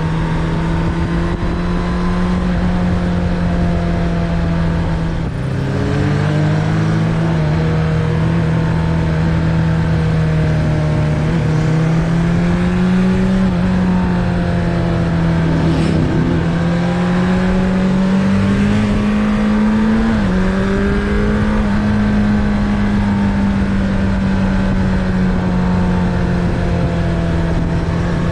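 Suzuki Bandit 600's inline-four engine running under load while riding, its note mostly steady with gentle rises and falls in revs. The revs drop and recover about five seconds in, and drop abruptly about twenty seconds in. Low wind rumble runs underneath.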